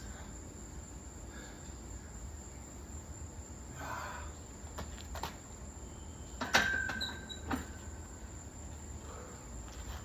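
A loaded 135 lb barbell set back on the rack: a sharp metal clank with a brief ringing about two-thirds of the way in, then a smaller knock a second later, after a few light clicks.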